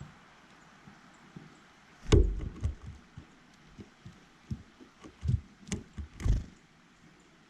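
Birds landing and pecking on a feeder right beside the microphone: a loud knock about two seconds in, then a scatter of light taps and a few more knocks near the end, over a faint outdoor hiss.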